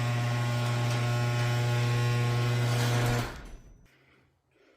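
Electric garage door opener motor running with a loud, steady hum, which winds down and stops about three seconds in as the door finishes its travel. A short click near the end.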